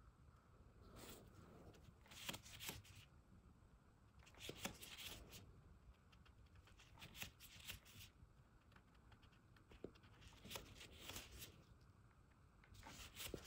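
Faint, scattered rustling and scraping of hands at work, a series of short soft bursts a second or so apart.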